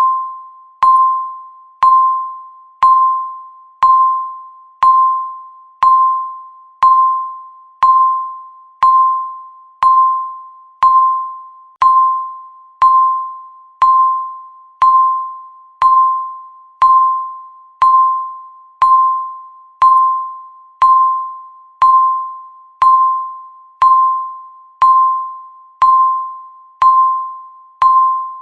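Countdown timer's electronic ticking: a sharp click with a short fading ring at one pitch, once every second.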